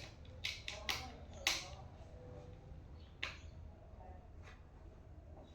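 Office chair parts being handled and fitted together: a few sharp clicks and knocks, about five in the first three and a half seconds, over a low steady hum.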